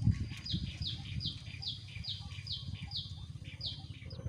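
A bird calling a run of about eight short, evenly spaced notes, each sliding down in pitch, about two or three a second. A steady low rumble runs underneath, and a dull thump at the very start.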